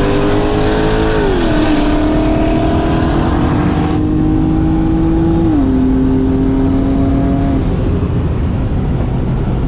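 Single-turbo BMW 135i's turbocharged inline-six at full throttle in a roll race. It pulls hard through the gears, its pitch dropping at an upshift about a second in and again about five and a half seconds in, then lifts off near the end.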